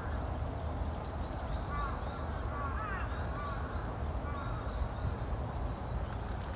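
Birds calling: a quick run of short, high chirps, with a few louder, lower calls around the middle, over a steady low background rumble.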